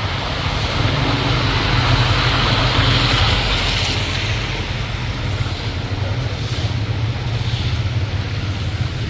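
A steady engine-like drone with a rushing hiss over it, a little louder about two to four seconds in.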